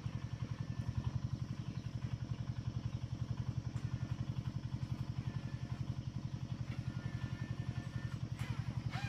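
Small motorcycle engine running steadily with an even, fast pulsing beat.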